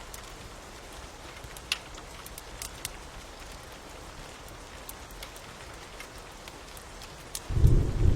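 Steady rain with scattered sharp crackles of a fire. About seven and a half seconds in, a deep, loud rumble of thunder breaks in and becomes the loudest sound.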